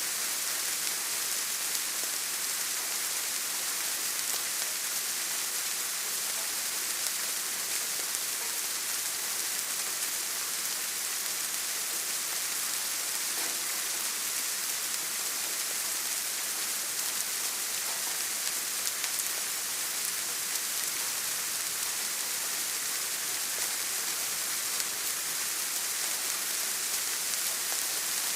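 Steady rain falling, a dense even hiss with the patter of single drops.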